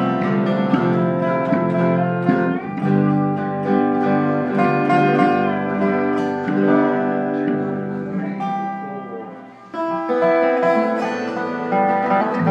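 Instrumental music led by guitar: plucked notes and chords ringing on. The sound dies away briefly about nine seconds in, then a new chord is struck.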